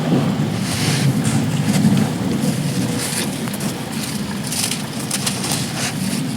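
Heavy wind rumbling on the microphone over rain hiss, broken every second or so by short crunchy bursts of dry sand clumps crumbling.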